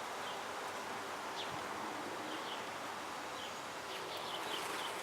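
Honeybees buzzing steadily around an open hive as its frames are lifted and inspected.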